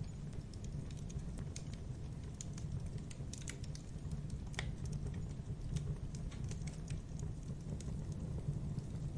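Wood logs burning in a fireplace: irregular crackling and popping over a low, steady rumble of the fire, with one sharper pop about four and a half seconds in.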